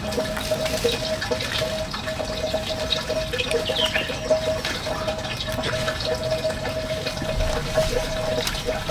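Water flowing steadily, with a steady mid-pitched tone running through it and a few small clicks.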